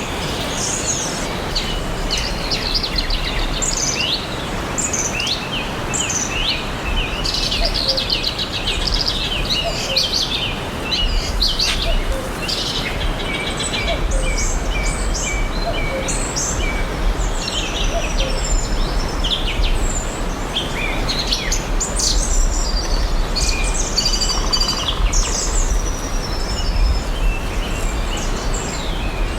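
Several forest birds chirping and singing at once, with short overlapping chirps and trills, over a steady background hiss and a low rumble.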